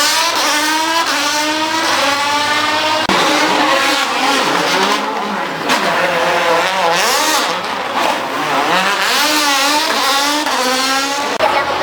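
Rally car engine revving hard, its pitch climbing and dropping over and over as the throttle is worked through a sideways drift.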